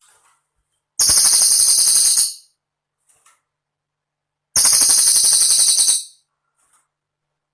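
Cililin bird singing two rapid, high-pitched trilling phrases, each about a second and a half long, separated by silence.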